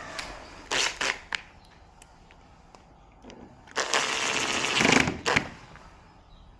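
Objects being handled: a few sharp clicks and clatters, then a scraping, rustling noise lasting over a second, and one more click.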